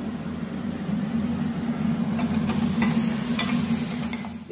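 Cubed eggplant sizzling in a steel kadai as it is stirred with a metal ladle, with a few sharp scrapes and clinks of the ladle on the pan from about two seconds in, over a steady low hum.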